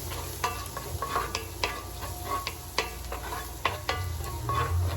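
Garlic sizzling in butter in a frying pan as it is sautéed and stirred, a utensil clicking and scraping against the pan a few times a second, with a steady low hum under it.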